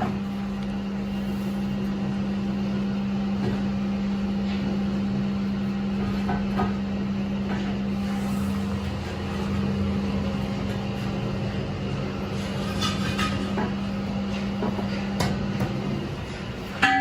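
A workshop machine running steadily with a constant hum, with a few light metal knocks, stopping about a second before the end.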